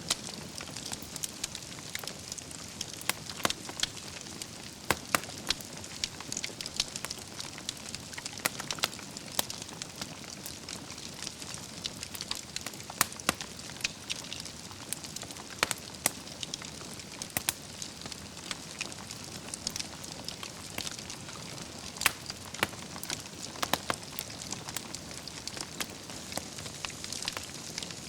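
Wood fire burning in a fireplace: logs crackling, with irregular sharp pops and snaps, some loud, over a steady soft hiss.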